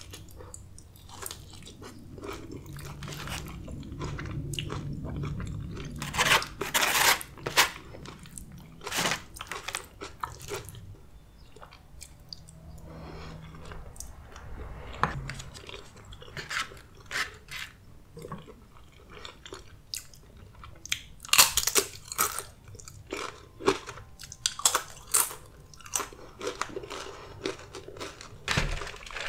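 Close-miked chewing of soft, saucy food (chile relleno and enchiladas) with many wet mouth clicks. There are louder clusters of bites about six seconds in and again about twenty-one seconds in.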